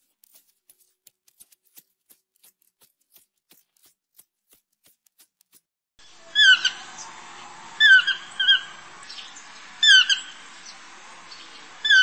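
A bird squawking: short, loud, hooked calls, some in pairs, every second or two over a steady background hiss, starting about six seconds in. Before that there are only faint scattered ticks.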